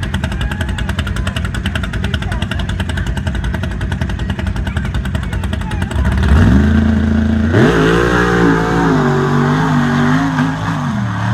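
Mud-bog truck engine running loud with rapid, choppy exhaust pulses. About six seconds in it revs up sharply. It then runs hard with its pitch rising and falling, while a loud rushing noise of tyres churning through mud joins in.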